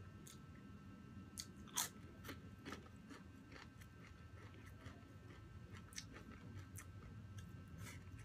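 Close-up chewing of crispy fried chicken skin: irregular sharp crunches and crackles through the chewing, the loudest about two seconds in.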